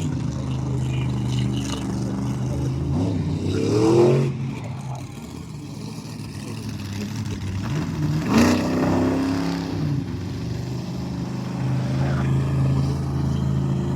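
Monster truck engine running, with two sharp revs rising in pitch, about four seconds in and again about eight seconds in.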